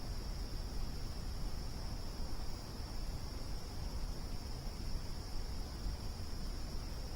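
Steady chorus of crickets, one continuous high trill, over a low steady rumble of background noise.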